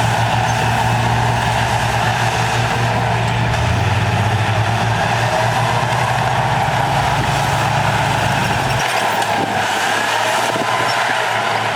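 Heavy diesel engine of earthmoving machinery running steadily. Its low rumble thins about nine seconds in as the engine note changes.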